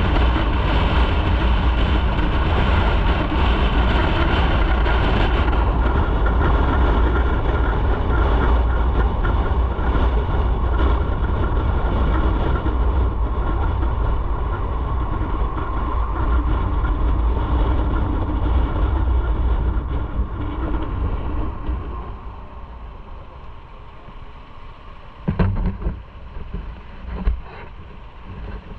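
Motorcycle on the move: a steady, loud rumble of engine and wind that fades about twenty seconds in, followed by a quieter stretch with a few sharp knocks near the end.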